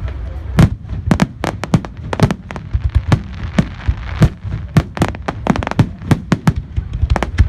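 Fireworks display: a rapid, irregular run of sharp bangs and pops, several a second, over a continuous low rumble.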